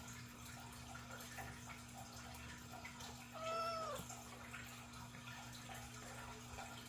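A domestic cat gives a single short meow about three and a half seconds in, its pitch dropping slightly at the end, over a steady low hum.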